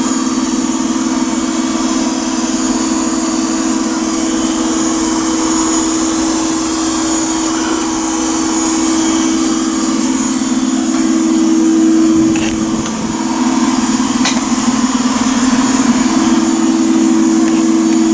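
Bee vacuum running steadily, its motor giving a constant hum with a strong held tone; the tone wavers and drops briefly about twelve seconds in, then steadies again.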